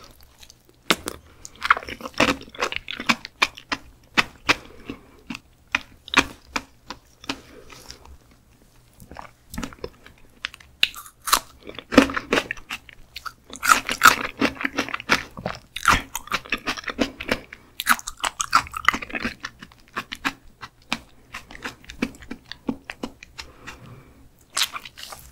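Close-miked chewing of raw skate liver: a dense run of short mouth clicks and smacks, with a lull about a third of the way in.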